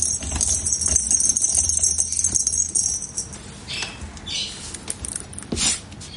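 Continuous high metallic jingling and rattling, like a small bell being shaken, stopping about three seconds in. A few short high-pitched sounds and clicks follow.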